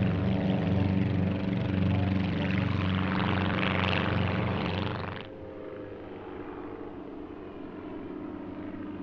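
Druine Turbulent light aircraft with small Volkswagen engines droning low and steady as they fly close past, with a rushing swell about three to four seconds in. About five seconds in the sound cuts abruptly to a quieter, more distant engine drone.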